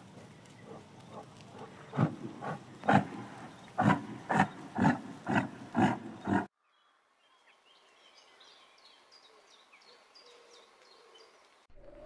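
A large animal giving a run of short, loud calls, about two a second, that stop abruptly about two-thirds of the way in. Faint high chirping follows.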